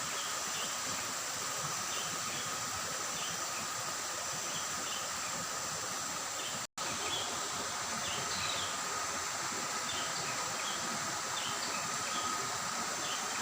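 A shallow river running over rocks, a steady babble of water, with scattered short bird chirps and a steady high insect-like whine over it. The sound drops out completely for a split second about halfway.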